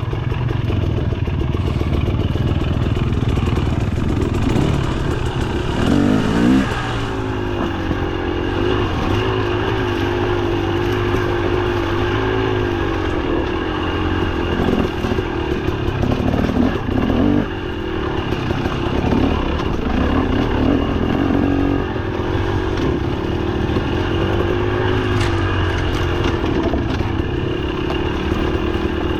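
Single-cylinder two-stroke engine of a KTM 300 XC TBI dirt bike running under way, its revs rising and falling continually with the throttle.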